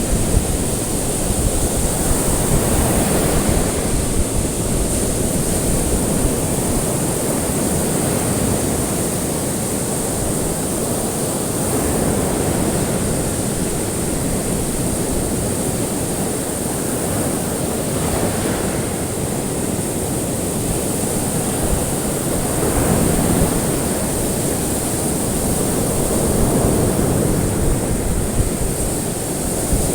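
Ocean waves washing onto a shore, a continuous rush that swells and recedes every few seconds, with a steady high hiss running underneath.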